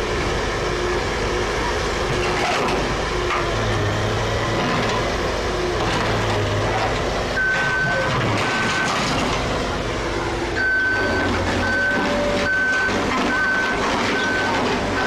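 Heavy vehicle's engine running, with a reversing alarm starting about halfway through: a couple of beeps, then steady single-tone beeps a little under a second apart.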